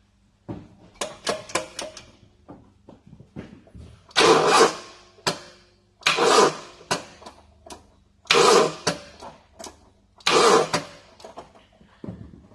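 Car starter motor straining to crank the engine in four short attempts about two seconds apart, with clicks in between; it tries to turn but only struggles, the hard-start fault being diagnosed.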